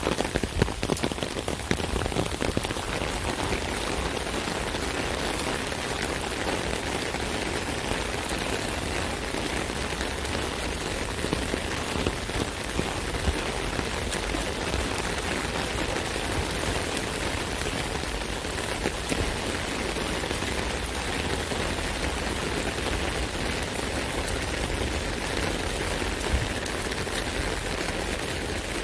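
Rain falling steadily on an umbrella: a dense patter of drops hitting the canopy over an even hiss, with more frequent, louder drop hits in the first couple of seconds.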